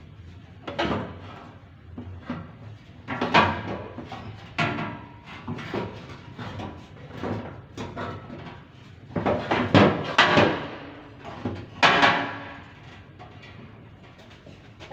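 A series of irregular knocks and clatters, as of objects handled and set down during workshop work, with the loudest cluster about two-thirds of the way through.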